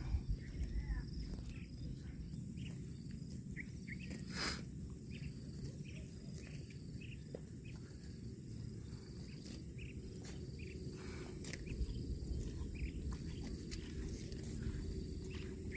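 Cow tearing and chewing grass: irregular crisp crunches, over a steady low rumble and a thin high insect drone.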